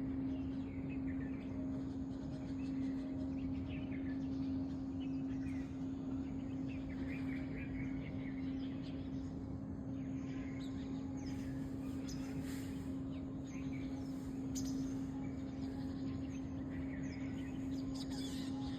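Scattered bird chirps and short calls over a steady low hum and a constant background rumble; the hum is the loudest sound throughout.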